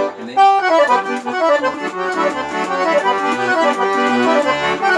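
Solo accordion (sanfona) playing a lively tune, likely a marchinha. A melody of quick notes runs in the right hand over short, regular bass notes from the left-hand buttons.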